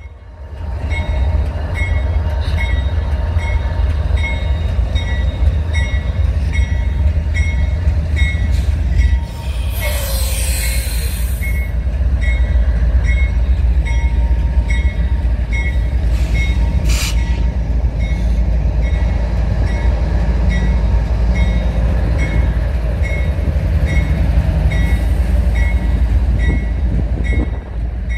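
A CSX freight train passing close behind a GE ES40DC diesel locomotive: a loud, steady engine rumble with wheels running on rail. A brief wheel squeal comes about ten seconds in and another short one near seventeen seconds. A faint high ping repeats about twice a second throughout.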